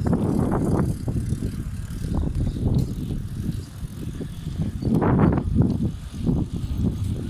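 Bicycle being ridden, with wind buffeting the bike-mounted microphone and the rumble of the tyres on the road, swelling and easing unevenly.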